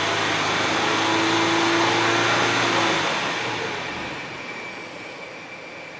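Nissan Elgrand Highway Star's engine and exhaust running at raised revs with a steady note. About three seconds in, the sound eases off and settles to a quieter, lower running, as at idle.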